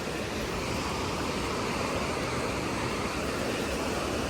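Steady wash of ocean surf, with some wind rumbling on the microphone.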